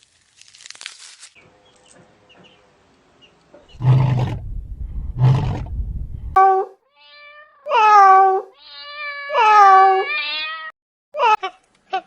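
A cat meowing: several drawn-out meows that bend up and down in pitch, after two loud, harsh, rasping calls about four and five seconds in. Short, quick calls begin near the end.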